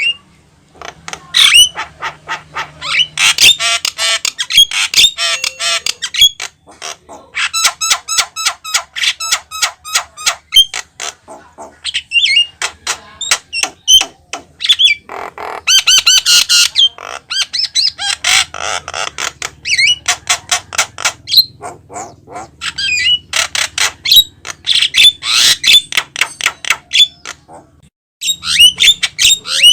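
Javan myna (jalak kebo) singing at length: fast runs of harsh, chattering and whistled notes in long bursts, with brief pauses between phrases.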